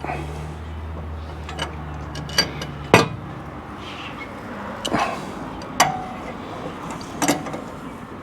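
Sharp metallic clinks and knocks of hand tools against metal parts, about six, spaced a second or so apart, the loudest about three seconds in. A low hum runs under the first three seconds, then stops.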